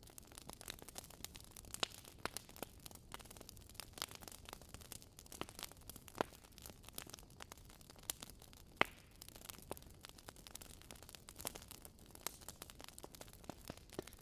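Wood fire crackling in a fireplace: irregular sharp pops and snaps over a soft hiss, with one louder snap about nine seconds in.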